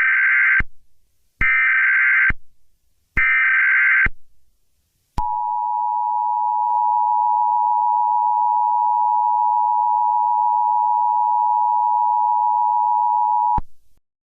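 Emergency Alert System signal: three short, harsh digital data bursts (the SAME header), then the steady two-tone attention signal held for about eight seconds before cutting off sharply. It marks the start of a broadcast weather warning.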